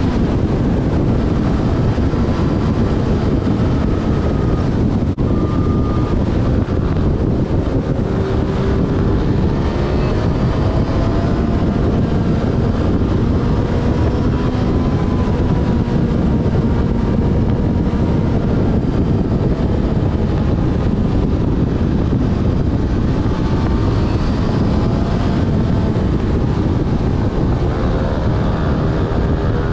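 Yamaha Fazer FZ6 S inline-four engine running at road speed, its pitch gently rising and falling. Heavy wind rushes over the camera microphone.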